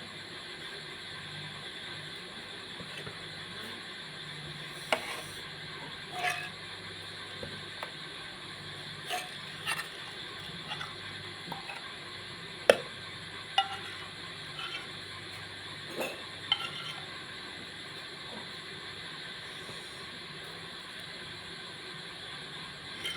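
Dishes, a glass and cutlery being handled and set down: scattered clinks and knocks, some with a short ring, the loudest about halfway through, over a steady low hum.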